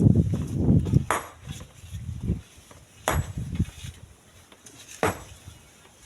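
Strong wind buffeting the microphone with a low rumble, loudest in the first second, and three sharp knocks about two seconds apart.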